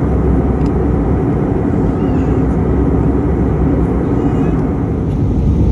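Steady cabin noise of an Airbus A319 in flight during its descent, a dense, even rush of airflow and engine sound.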